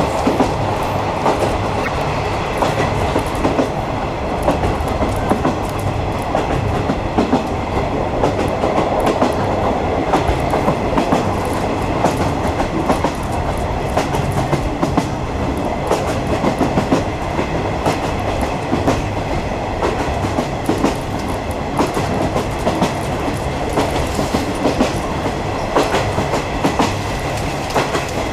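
A 50-series passenger coach running along the line, its wheels clicking over rail joints on top of a steady rumble, heard from inside the coach.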